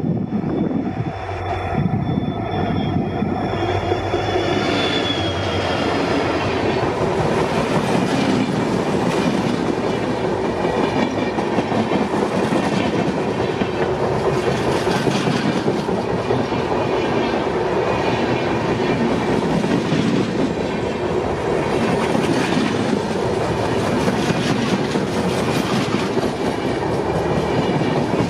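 Passenger train behind a WDP4D diesel locomotive passing close by. The engine's hum and a high wheel tone are heard in the first few seconds, then the coaches roll past with a fast, steady clickety-clack of wheels over rail joints.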